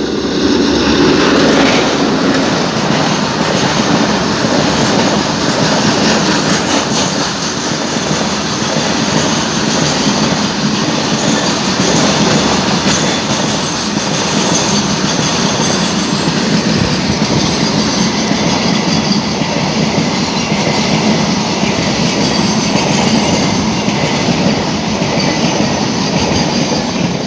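Moving train running steadily on the rails: loud, continuous noise of wheels on track.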